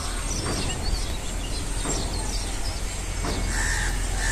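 Birds calling: a short harsh caw about three and a half seconds in and again at the very end, over scattered high chirps. A low steady rumble runs underneath.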